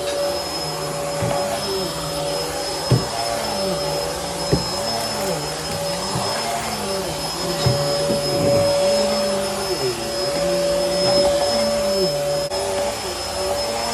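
Bissell Helix upright vacuum cleaner running, with a steady high whine over a lower hum that rises and falls in pitch over and over. Two sharp knocks come about three and four and a half seconds in.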